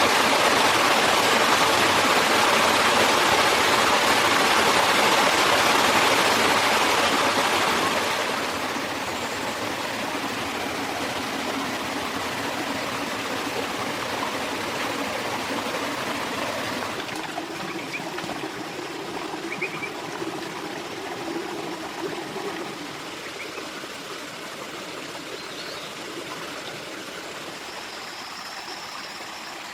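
Stream water running steadily. It is loud for the first several seconds, then quieter after about eight seconds, and quieter again in the second half.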